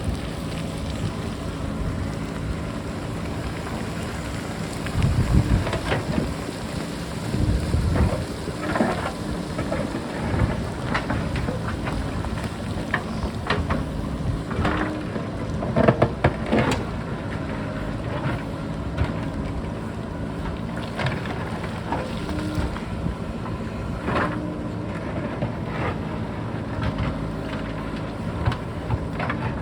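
JCB backhoe loader's diesel engine running steadily while the machine digs, with repeated clattering knocks of rock against the bucket and rocks tumbling down the slope, the loudest clatter about halfway through. Wind buffets the microphone in gusts, with heavy rumbling blasts early on.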